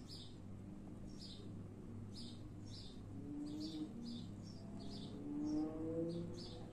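A small bird chirping repeatedly in the background: faint, short, high chirps two or three times a second, over a low steady hum.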